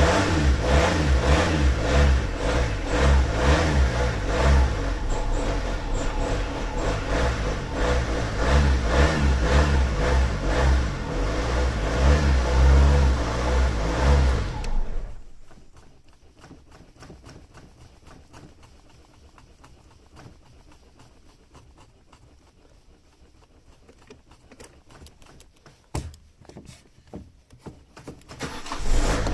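Car engine revved hard and repeatedly, its pitch swinging up and down in quick rev blips, then shut off abruptly about halfway through. After that only faint clicks and ticks are left, with one sharper click, until the engine sound comes back right at the end.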